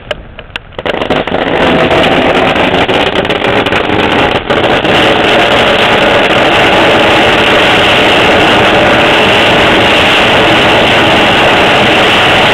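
Fireworks going off very loud: a dense rapid crackling for the first few seconds, then a steady rushing hiss of sparks.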